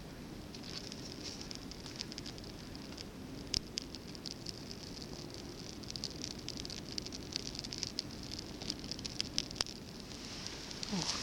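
Birch bark and wood chips crackling as they catch alight between the upright logs of a Finnish-candle fire: a run of small sharp pops, with one louder pop a few seconds in and the crackle growing denser near the end.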